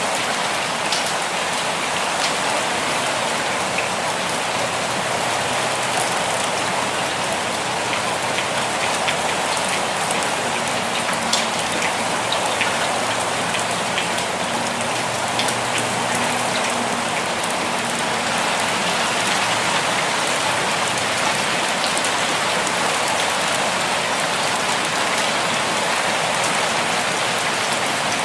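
Steady rainfall: an even hiss of rain with scattered single drops ticking through it.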